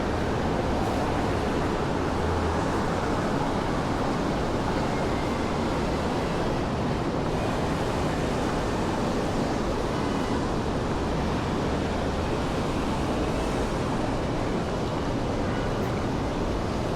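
Steady city street ambience at night: an even, unbroken rushing hum with no distinct events.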